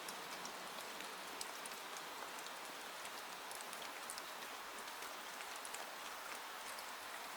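Steady rain falling, with scattered sharp drops ticking through the even hiss.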